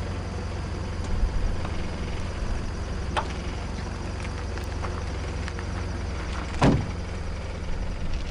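Car driving sound effect: a steady low engine and road drone of a moving car, with a few light knocks and one louder thump about two-thirds of the way through.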